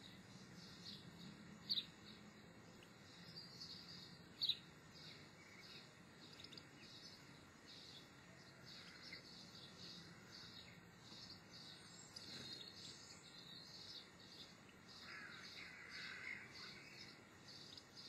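Faint bird chirps and twittering, with two brief louder chirps near 2 and 4.5 seconds in.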